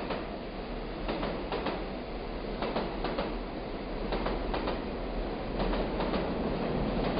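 Train rolling along the track: a steady rumble with irregular metallic clacks, often in pairs, as the wheels pass over rail joints, growing slightly louder toward the end.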